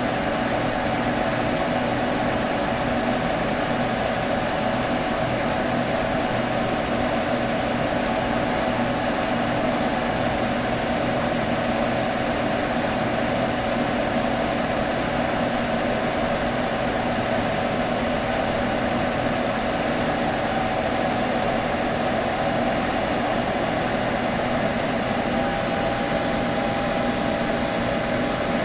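A computer humming steadily, a constant whir with a low hum under it; near the end a new steady tone joins in.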